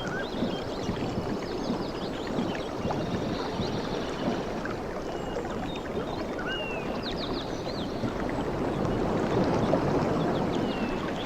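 Waves washing on a tropical beach, a steady rush of surf that swells about eight seconds in, with short high chirps scattered over it.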